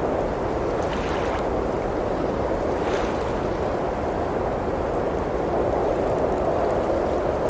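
Blizzard wind blowing steadily, heard from inside a cabin, with a few faint pops and crackles from a wood fire in a fireplace, one about a second in and another about three seconds in.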